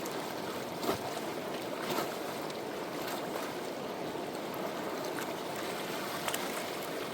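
River water rushing steadily, with a few light clicks or knocks over it.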